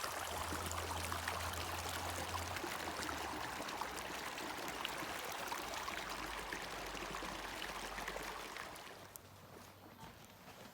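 Steady rushing of running water, like a small stream, fading away about nine seconds in.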